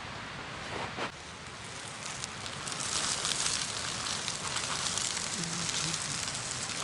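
Campfire crackling and hissing, the crackles growing denser and louder after a couple of seconds, with a brief louder rush about a second in.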